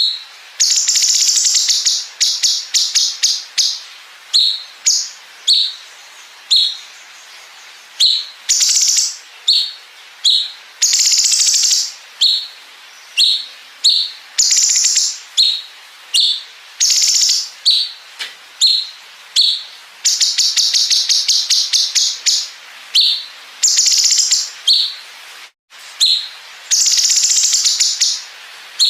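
Cucak cungkok singing: short sharp chirps alternating with long, very rapid machine-gun-like trills ('bren'), each trill lasting one to a few seconds, the longest about a second past the two-thirds mark.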